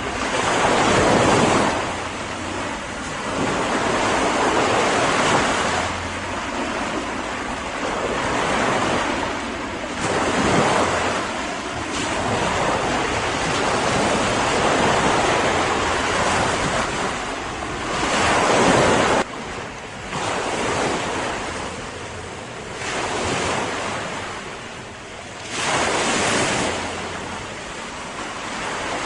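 Ocean surf: waves breaking and washing ashore, the rushing noise swelling and ebbing every few seconds. One surge cuts off suddenly about two-thirds of the way through.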